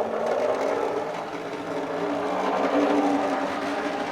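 Tri-ang OO-gauge Blue Pullman model train running on track, its motor giving a steady whirring hum. It is a little bit noisy, as old Tri-ang motors tend to be.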